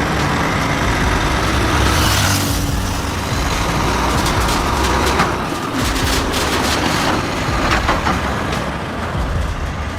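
Heavy truck engine running steadily, with a burst of hiss about two seconds in and several short knocks later on.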